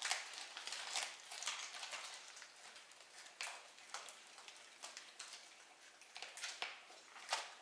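Kitten eating cat food, with irregular soft wet smacking and chewing clicks a few times a second.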